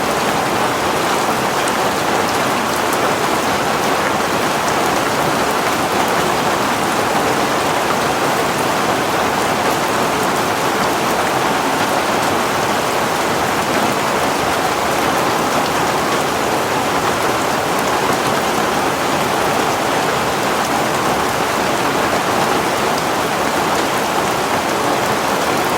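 Heavy rain falling steadily, an even hiss of downpour with the patter of drops on surfaces.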